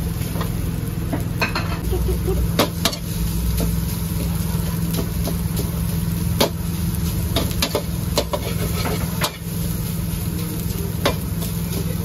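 Food frying in hot oil at a street-food stall, a steady sizzle over a constant low hum, with scattered sharp clinks of a metal utensil against the pan every second or two.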